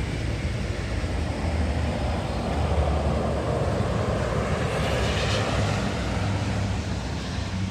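Jet airliner passing overhead: a steady low rumble with a rushing noise that swells about five seconds in, then begins to fade.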